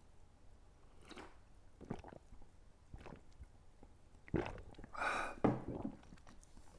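A man chewing food with his mouth: soft, scattered wet clicks, with a louder breathy sound about four and a half to five and a half seconds in.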